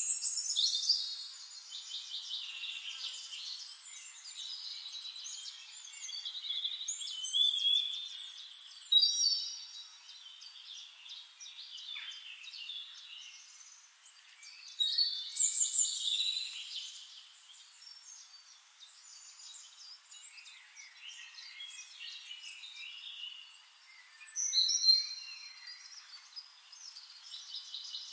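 Songbirds singing and chirping in a busy chorus of warbles and trills, with louder bursts of song every several seconds.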